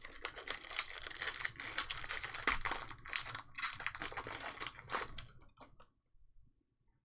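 Trading card pack wrappers being torn open and crinkled by hand, a dense run of crackling that stops a little under six seconds in.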